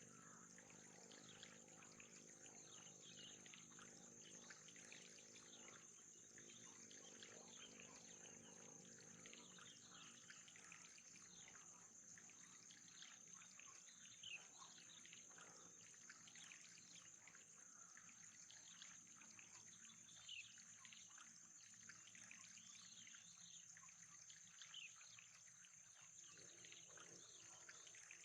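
Faint trickling water over a steady high-pitched whine, with a low hum underneath that fades out about two-thirds of the way through.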